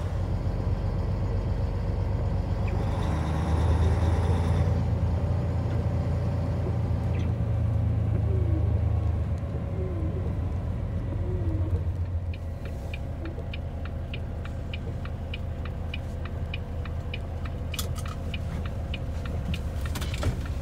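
Semi truck's diesel engine and road rumble heard inside the cab, dropping to a quieter level about twelve seconds in. Over the last third a fast, regular ticking runs alongside it.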